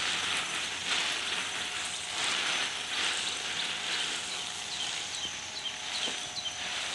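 Outdoor garden ambience: a steady high hiss, with a bird chirping short, high notes about three times a second through the second half.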